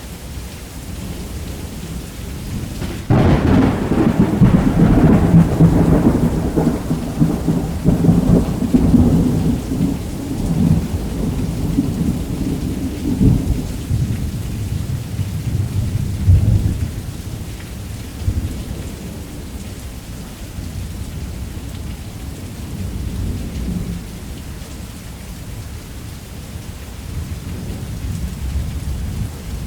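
Thunderstorm: steady heavy rain, broken about three seconds in by a sudden loud crack of thunder that rolls on as a deep rumble and fades away over some fifteen seconds, with the rain going on beneath it.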